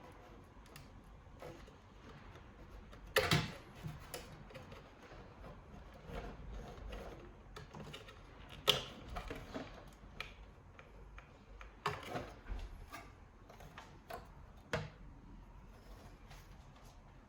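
Irregular sharp clicks and light knocks of tools and small parts being handled on a Singer Curvy sewing machine under repair, the loudest about three, nine, twelve and fifteen seconds in.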